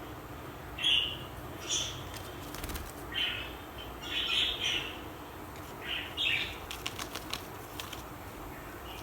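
Budgerigars giving short chirps, one every second or so, with a few quick clicks or flutters in between.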